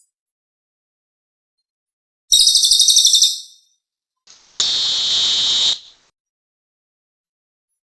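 Recorded cililin bird call used as a catcher's lure: a rapid, high trill lasting about a second, then after a short pause a harsh, steady buzz of about a second.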